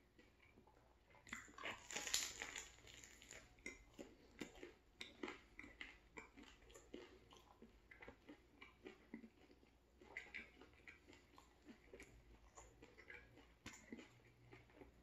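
A person biting into a turkey sandwich on a bread roll, with a crunchy bite about a second and a half in, then steady close-up chewing at about two chews a second.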